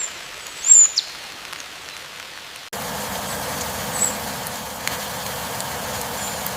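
Forest ambience: a steady rain-like hiss with a few short, high, down-sweeping bird chirps in the first second, then an abrupt switch about a third of the way in to a denser, steady background noise with faint chirps over it.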